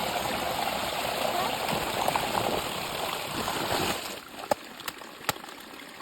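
Shallow river water rushing steadily past a sandbag dam, cutting off abruptly about four seconds in. A quieter stretch with a few sharp clicks follows.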